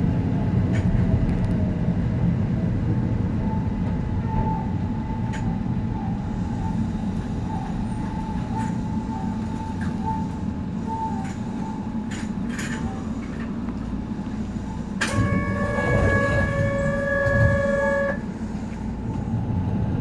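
Keihan 800 series metro train running on the track, heard from the cab: a steady low rumble of wheels and traction motors, with a thin high whine over it for several seconds. About fifteen seconds in, a steady tone sounds for about three seconds.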